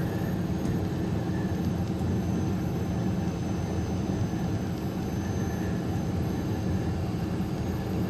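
Steady engine and road noise of a truck driving at a constant speed, heard from inside the cab as a low, even drone.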